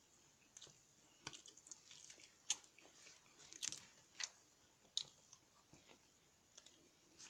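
A person chewing mouthfuls of a roasted chicken sub sandwich with lettuce and onions: faint, scattered crunches and moist clicks of biting and chewing.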